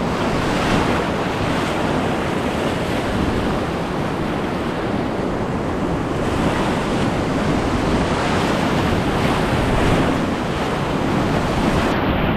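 Loud, steady rushing of whitewater in a river rapid, with wind noise on the microphone.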